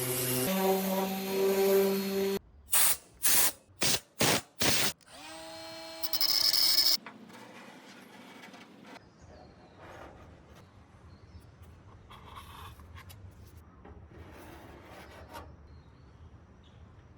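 A small electric power tool whining: a steady run, then five short bursts, then a run that spins up in pitch and holds for about two seconds. After that, for most of the rest, there is only quieter irregular rubbing and scraping, like hand work on the metal body.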